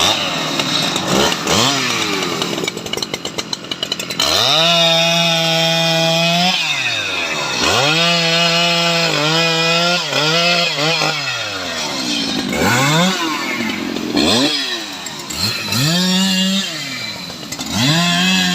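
Stihl MS 881 two-stroke chainsaw at work. For about four seconds it runs rough and ragged in the cut. After that it is revved repeatedly: the engine climbs to full throttle, holds for a second or two, then drops back toward idle, about six times.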